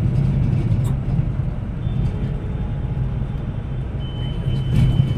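Steady engine drone and road rumble heard from inside a moving multi-axle coach, with a faint high whine in the second half.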